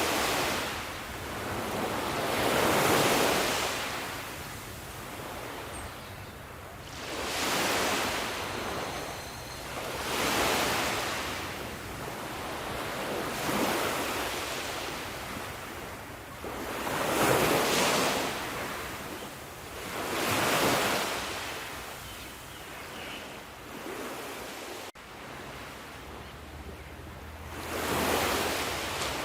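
Sea waves breaking and washing onto the shore, the surf swelling and falling back in surges every three to four seconds.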